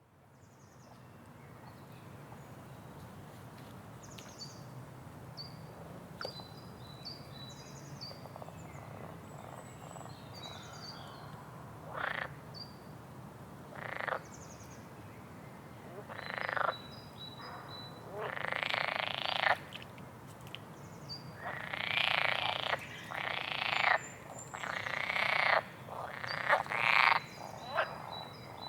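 Frogs croaking at a pond in loud calls that come more often from about halfway on, some lasting over a second, with small birds chirping briefly and a low steady hum beneath.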